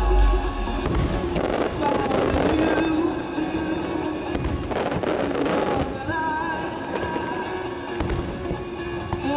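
Aerial firework shells bursting, with crackling stretches about a second and a half in and again near the middle, over music playing throughout.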